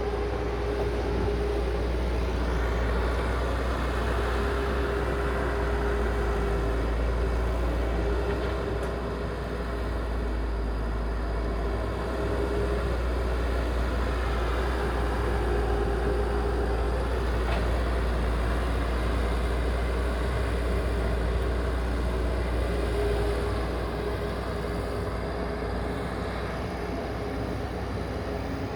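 Heavy machinery engine running steadily: a deep, even rumble with a humming note that fades in and out.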